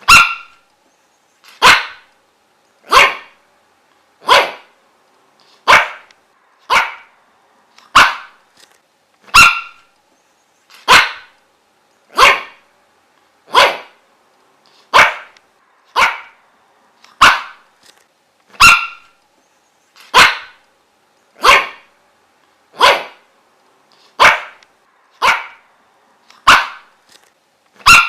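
A dog barking over and over, one short sharp bark about every second and a quarter, at a steady pace.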